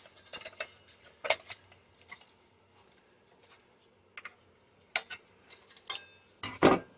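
Small hand tool clicking and clinking against the metal parts of a microwave magnetron as wire is worked out of it, in scattered sharp metallic clicks with short pauses between.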